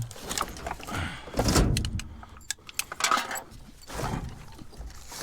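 Small pieces of scrap metal clinking and clattering as they are rummaged through and handled, with a scraping stretch about one and a half seconds in and a few sharp clanks.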